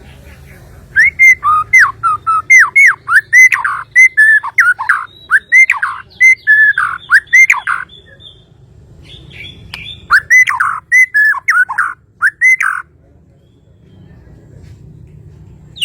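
White-rumped shama (murai batu) singing: a rapid string of loud whistled notes that glide up and down. The song comes in two bouts, the first from about a second in to near eight seconds, and a shorter one about two seconds later.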